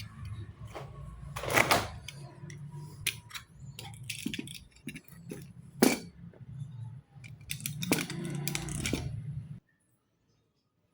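Handling noise from unpacking: irregular rustling, clicks and knocks, with a few louder scrapes, over a steady low hum. The sound cuts off abruptly near the end.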